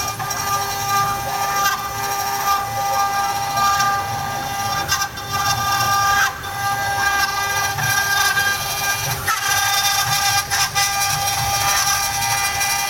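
Spindle of a 4-axis CNC router running at a steady high pitch while it carves, over cutting noise, with a few short clicks.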